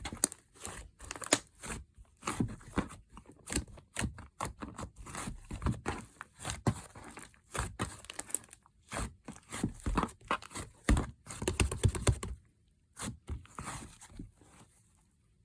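Slime being pressed, stretched and squeezed by hand, giving a rapid run of sticky clicks, pops and crackles. They stop about twelve seconds in, and a few softer squishes follow.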